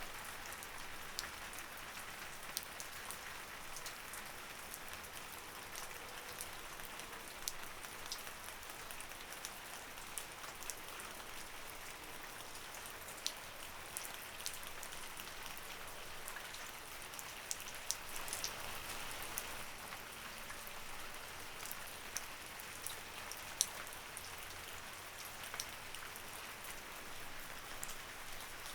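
Light rain falling steadily, a soft even hiss with many separate drops ticking sharply on a surface.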